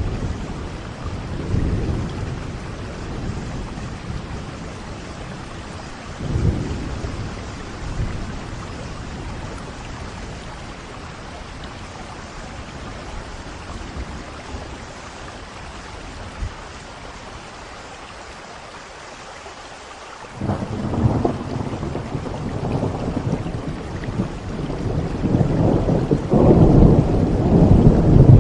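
Steady rain with rolling thunder: a few low rumbles early, then a sudden loud clap of thunder about twenty seconds in and a heavier, longer roll near the end.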